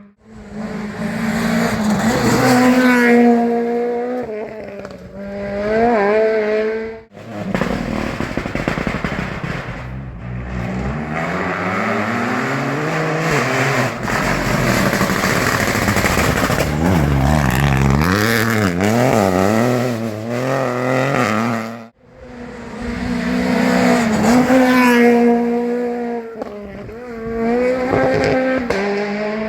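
Rally car engines at full attack on a closed stage, revving hard and rising and falling in pitch through repeated gear changes and lifts, in three short clips cut together.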